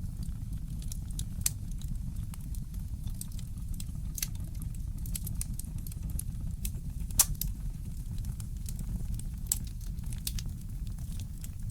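Wood fire crackling in a fireplace: irregular sharp pops and snaps over a steady low rumble, with a louder pop about seven seconds in.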